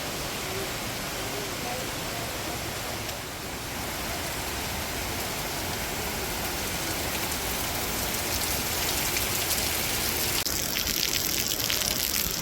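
Steady rush of falling water, a continuous noisy hiss. About ten seconds in it grows louder and brighter, with a splashier texture.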